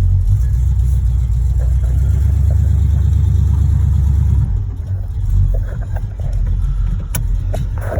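Car's 355 small-block V8 pulling under load while driving, then easing off about halfway through and running on more quietly. This engine has a knocking connecting rod. A single sharp click comes near the end.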